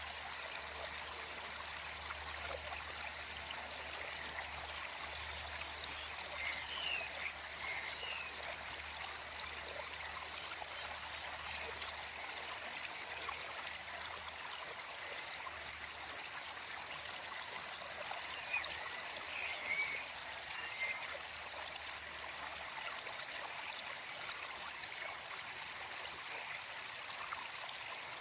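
Small forest stream flowing over stones, a steady rushing trickle, with a few short bird chirps about a quarter of the way in and again around two-thirds through.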